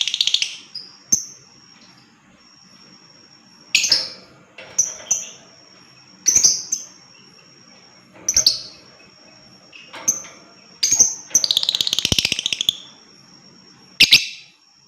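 Lovebird calling: sharp, shrill chirps every couple of seconds, and about eleven seconds in a long, rapid chattering trill lasting over a second, the 'ngekek' song that lovebird keepers try to draw out.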